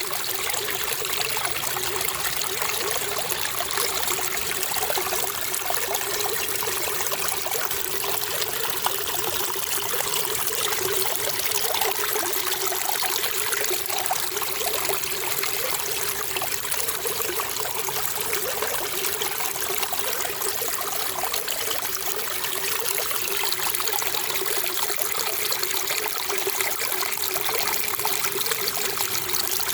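Running water trickling and splashing steadily, with no breaks or changes.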